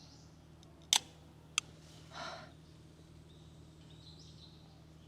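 Drink can's pull-tab snapping open with a sharp double click about a second in, a smaller click after it, then a short hiss. Faint bird calls in the background.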